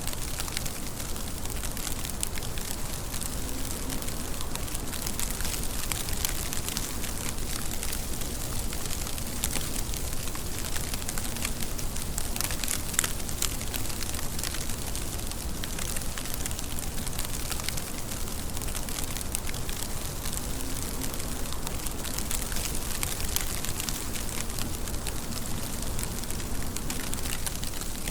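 Steady rain falling, a dense, even hiss with many close drops pattering and crackling on a surface.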